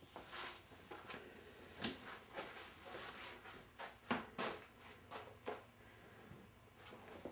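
Faint footsteps walking at an uneven pace, roughly two soft steps a second.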